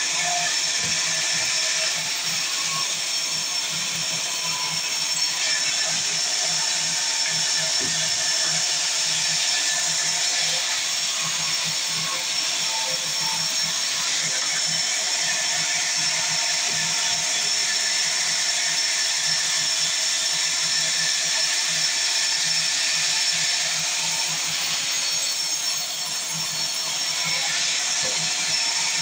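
Sawmill saw running steadily through timber, a continuous high rasping whir at an even level without a break.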